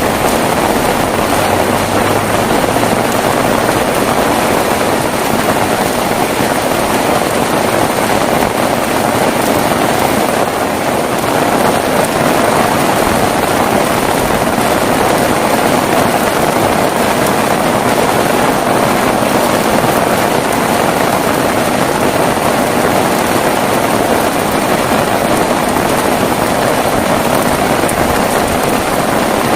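Heavy rain falling steadily: an even, loud hiss with no thunder and no breaks.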